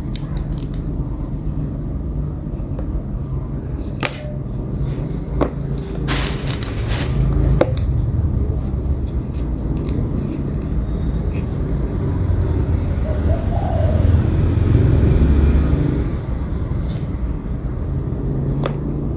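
Steady low background rumble with a handful of sharp metallic clicks spread through it, a slim Zippo lighter being handled, its lid flipped open and snapped shut.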